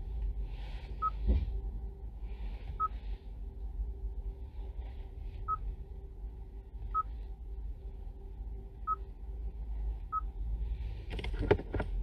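Short, faint high-pitched electronic beeps, six of them at uneven intervals of one to three seconds, over a steady low rumble and a faint hum. Near the end a louder clatter of knocks begins.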